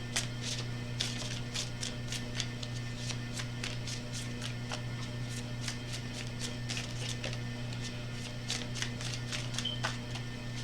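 A tarot deck being shuffled by hand: a long run of quick card clicks and riffles.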